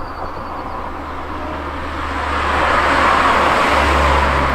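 A car driving along a road: a steady low engine hum under tyre and road noise, which grows louder about two seconds in, with a change in the engine note near the end.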